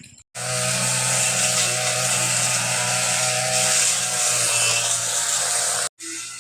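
A small motor running loudly and steadily; it starts suddenly just after the beginning and cuts off abruptly near the end.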